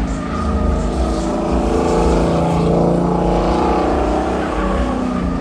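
A loud car engine running at high revs, its pitch held fairly steady throughout.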